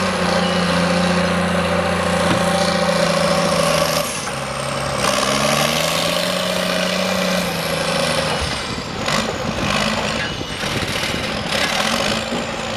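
Heavy diesel engine of logging machinery running under varying load, its pitch dipping, climbing and dropping again, with a high whine rising and falling alongside it. A few sharp knocks come in the later part.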